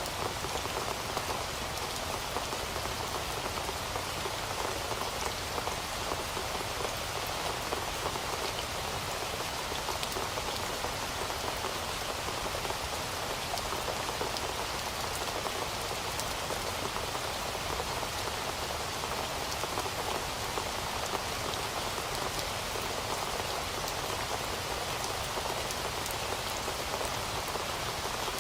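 Heavy rain falling steadily, a dense even hiss with countless fine drop patters.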